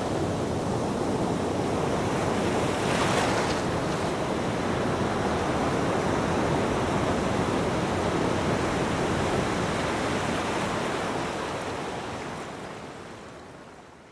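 Ocean waves breaking on a beach, a steady rush of surf with a louder surge about three seconds in. The sound fades out gradually near the end.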